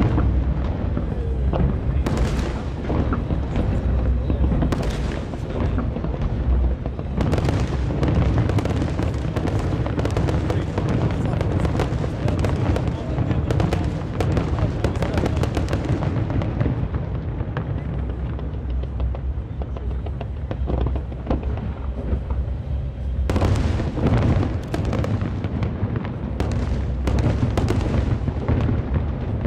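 Aerial firework shells bursting in quick succession, a dense run of booms and crackle. The barrage thins for a few seconds past the middle, then a fresh volley of loud bursts comes in about two-thirds of the way through.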